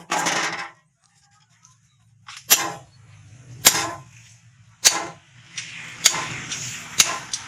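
Hammer blows on metal at the anvil while forging rebar into tongs. There are single sharp, ringing strikes roughly one every second or so, starting about two and a half seconds in after a short pause.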